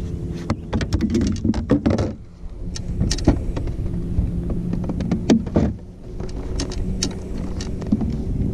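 Fishing kayak underway on a lake: wind rumbling on the microphone, a steady low hum, and many short splashes and knocks of water against the hull.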